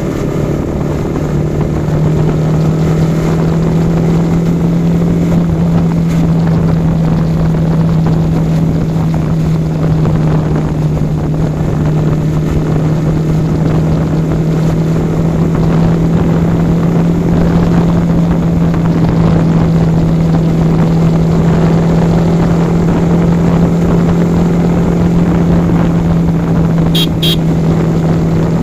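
Yamaha R15 V4's 155 cc single-cylinder engine running at a steady cruising speed, its note stepping up a little about two seconds in and then holding steady. Two short high ticks sound near the end.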